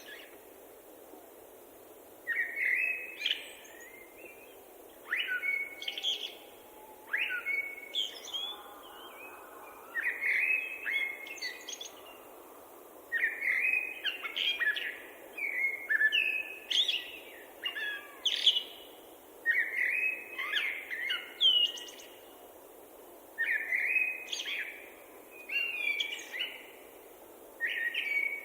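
Songbirds singing short, quick, varied phrases, one every two to three seconds, over a steady low background hiss.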